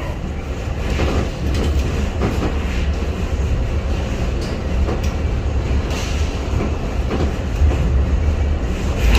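Metra diesel commuter train rolling by at the platform: a steady heavy low rumble with scattered clicks and knocks of the wheels on the rails.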